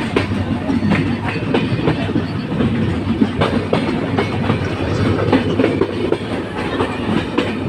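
A steady low rumble overlaid with dense, irregular clattering and rattling clicks.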